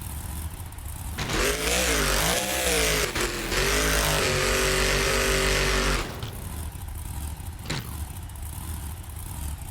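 Monster truck engine revving hard for several seconds, its pitch rising and falling, then dropping back to a lower, quieter running sound about six seconds in.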